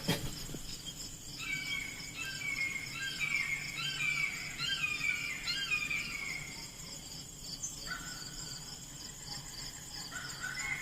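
A bird singing runs of short downward-sliding chirps, pausing for a few seconds near the middle and starting again near the end, over a steady high insect trill.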